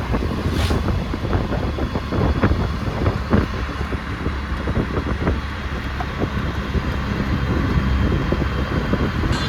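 Moving road vehicle running with a steady low rumble, wind buffeting the microphone, and frequent small knocks and rattles.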